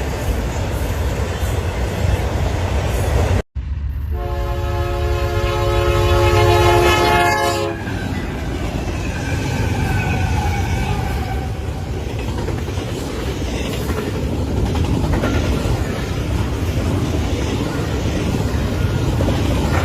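A passing train rumbling steadily. About four seconds in, after a brief cut in the audio, a train horn sounds a chord of several tones for about four seconds.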